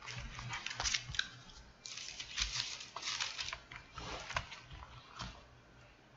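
Thin Bible pages being turned, a series of short papery swishes and rustles, about five over the few seconds.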